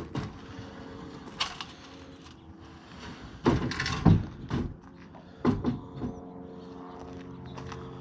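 Wooden knocks and clunks of lumber being handled and set in place for an awning frame, the loudest cluster in the middle, over a steady low mechanical hum.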